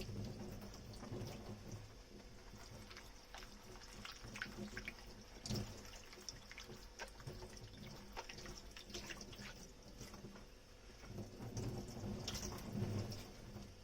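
Dishes being washed at a kitchen sink: tap water running, with scattered light clinks and knocks of dishes being handled. The handling gets busier and louder near the end.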